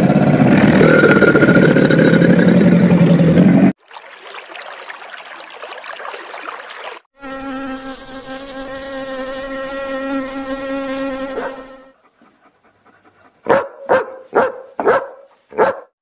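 Several sounds come one after another. First a loud, harsh noise for three or four seconds, then a fainter hiss. Next, honeybees buzz at flowers as a steady, even hum for about five seconds. Near the end comes a string of about five short, sharp calls.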